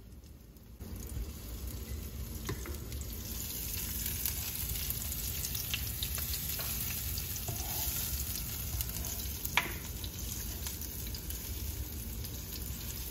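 Sliced shallots sizzling in hot oil in a metal sauté pan, stirred with a plastic spoon that gives a few light clicks against the pan. The sizzle rises about a second in and then runs steadily.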